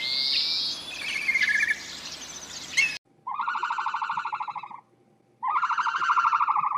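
Bird calls. First come quick chirps and short whistled trills. After a cut about three seconds in, there are two long, rapidly pulsed calls, each lasting about a second and a half, with a short gap between them.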